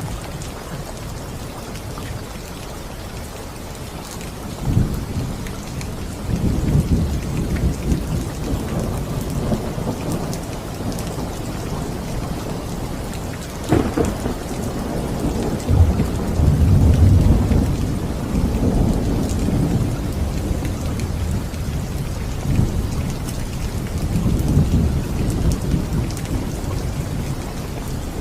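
Steady rain with thunder rolling in deep rumbles that swell and fade again and again. A sharp crack comes about halfway through, followed by the loudest rumble.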